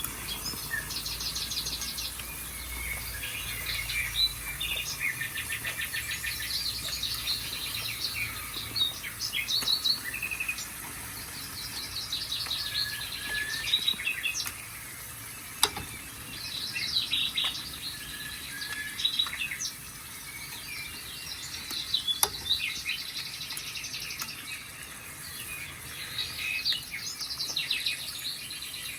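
A chorus of songbirds chirping and trilling, many overlapping calls, played back through a TV's speakers. Two sharp clicks cut in, one about halfway through and another some six seconds later.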